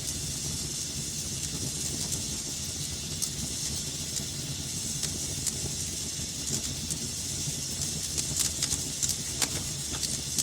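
Fire burning in a fireplace: a steady low rumble and hiss with scattered sharp crackles and pops, a quick run of them about eight to nine seconds in.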